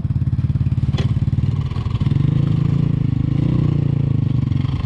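Dirt bike engine running on the throttle, getting louder for a couple of seconds in the middle as it pulls up a hard climb. A single sharp click about a second in.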